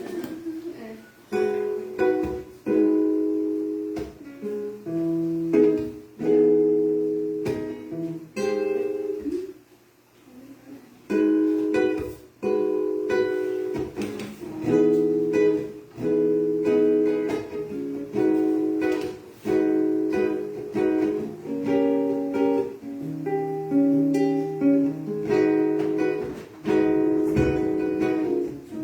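Acoustic guitar strummed in chords, changing chords every second or two, with a short break about ten seconds in before the strumming resumes.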